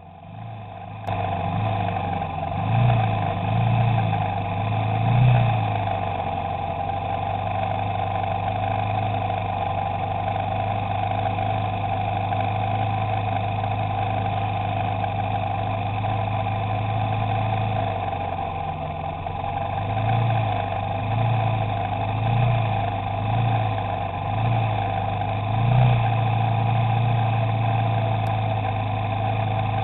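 Vintage 350cc racing motorcycle engines idling, with short throttle blips a few seconds in and a run of quick blips about once a second later on.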